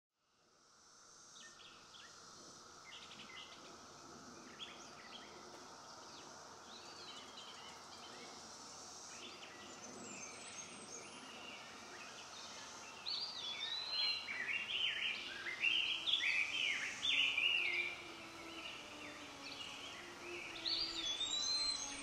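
Wild songbirds singing in short, swooping phrases over a steady outdoor hiss, fading in from silence at the start; the birdsong grows louder and busier about halfway through.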